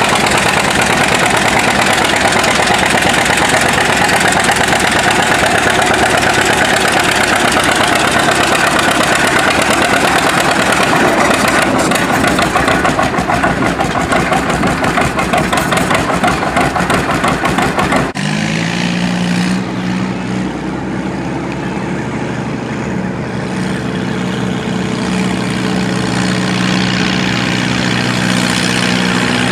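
Antique pulling tractor's engine running hard at high throttle under load, its separate firing beats becoming plain in the last few seconds. About two-thirds of the way through the sound cuts abruptly to a quieter, steady engine hum with a low, even pitch.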